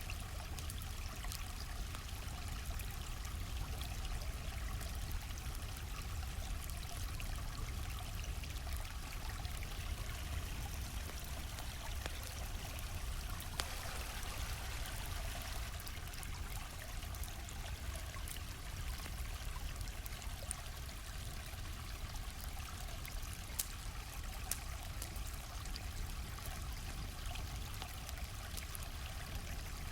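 Steady rushing and trickling of a flowing stream, with scattered crackles and pops from a campfire mixed in; a couple of sharper pops stand out midway and later.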